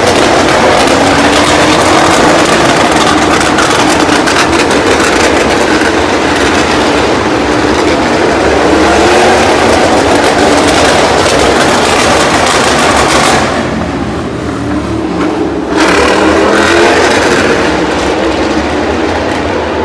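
MotoGP racing motorcycles at full throttle on track, their four-cylinder engines rising in pitch again and again as they shift up through the gears. The sound drops briefly about two-thirds of the way through, then comes back loud.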